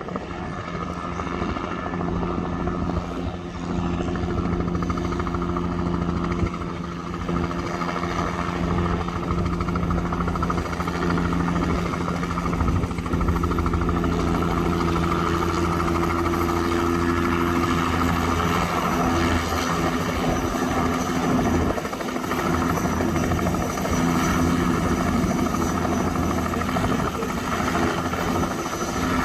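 Helicopter running steadily: a continuous drone of turbine engine and rotor with a steady low hum.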